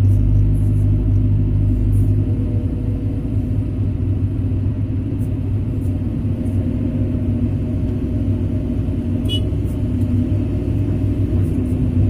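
Kobelco SK200 excavator's diesel engine running with a steady low drone as it works.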